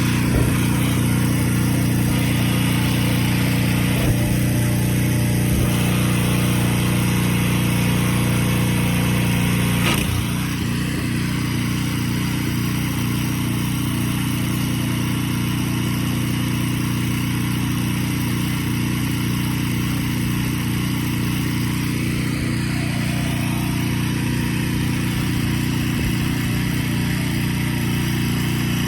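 An engine runs steadily at an even pitch, with a click and a slight drop in level about ten seconds in.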